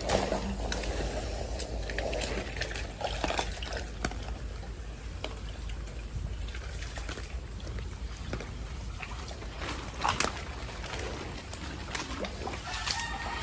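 Water trickling and sloshing steadily, with scattered light knocks and a louder knock about ten seconds in.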